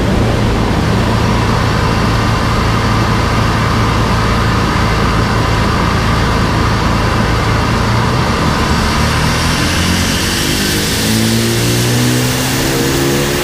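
Renault Twingo's swapped-in turbocharged F4R four-cylinder engine running on a rolling-road dyno, held at steady revs and then climbing in steps over the last third. A thin high whine rises with it near the middle.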